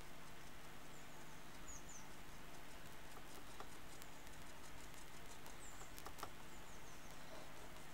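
Faint scratching patter of a small wet paintbrush scrubbing the painted plastic of a 3D-printed mask, wetting the paint so it chips off over a hairspray layer, over a steady low hum.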